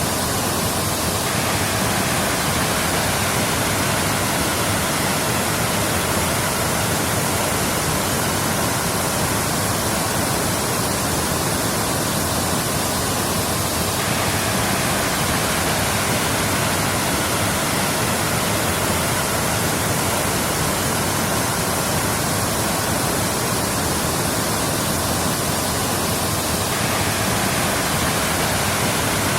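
Waterfall: water falling and rushing in a steady, unbroken roar of noise that does not change in loudness.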